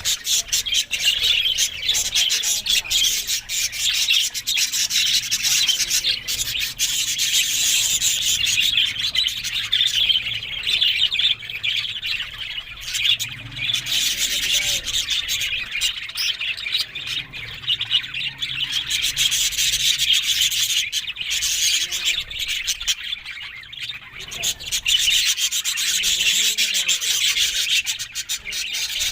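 Budgerigars chattering and warbling together in a dense, unbroken stream of high chirps and short clicks.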